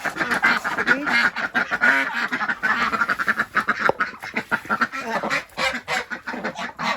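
A flock of domestic ducks quacking loudly and continuously, many calls overlapping: the ducks complaining, upset that there is no mud for them to dabble in.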